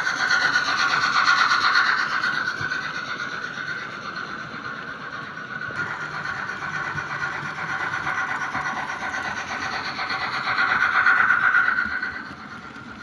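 Märklin H0 model steam locomotive and its three-axle coaches running on the layout's track: a steady whirring, rubbing rolling noise of the motor and metal wheels on rail. It swells loudest near the start and again shortly before the end, as the train passes close, then drops away about twelve seconds in.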